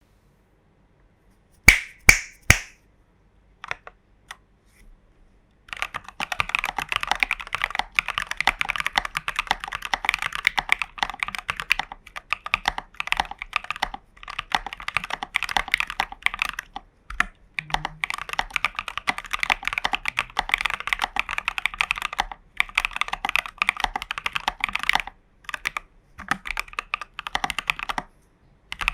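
Custom mechanical keyboard (Hades v1.3 kit, Prevail Epsilon switches, Geekark BOW keycaps, Durock v2 stabilisers) being typed on. Three loud single key strikes come about two seconds in, then a few light taps, and from about six seconds fast continuous typing with short pauses.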